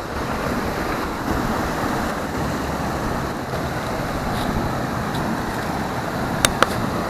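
Waterfall rushing: a steady, dense roar of falling water. Two short sharp clicks sound near the end.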